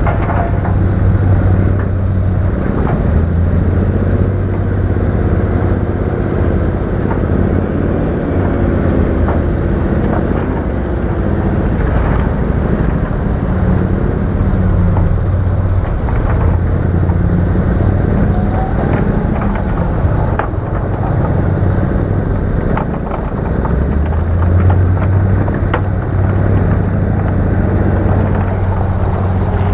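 Diesel engine of heavy earthmoving machinery working: a strong low drone whose pitch rises and falls as it works, with scattered clanks and rattles.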